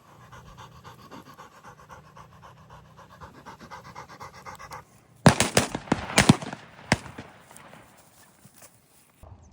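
A bird dog panting rapidly and steadily while sitting, then, about five seconds in, a quick volley of several loud shotgun shots followed by a few fainter distant shots.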